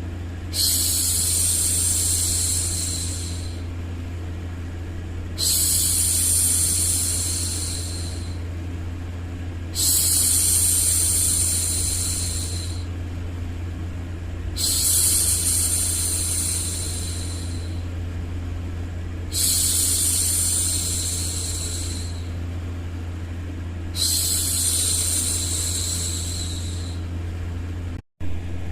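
A woman's voice shushing a baby with a long 'shhh', six times, each lasting about two and a half seconds, with pauses between. A steady low hum runs underneath, and the sound cuts out for a moment near the end.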